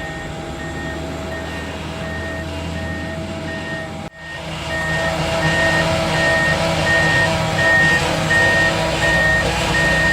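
Backup alarm on heavy equipment beeping steadily, about one and a half beeps a second, over a running engine. About four seconds in the sound briefly drops out, and the engine is louder afterwards.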